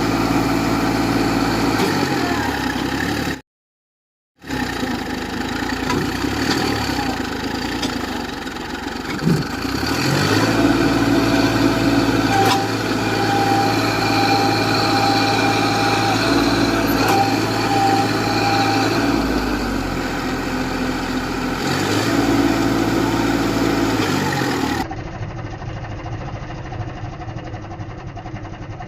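Tractor engine running steadily, its pitch shifting in steps between edited clips, with a brief total dropout about four seconds in.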